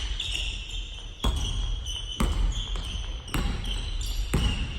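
Basketball bouncing on a hardwood gym floor, about one bounce a second, with short high squeaks of basketball shoes on the court.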